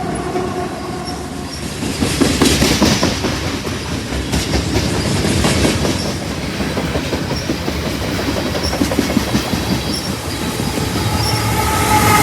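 A train passing close by, its wheels clattering and clicking over the rail joints. A train horn's chord stops just as it begins, and the horn sounds again about eleven seconds in.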